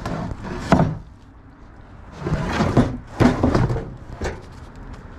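Heavy door jambs being handled and knocked about as scrap. A sharp knock comes just under a second in, then scraping, clattering and several more knocks around the middle.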